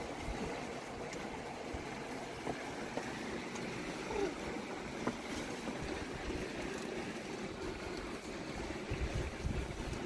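Fast river water rushing steadily, with bursts of wind on the microphone near the end.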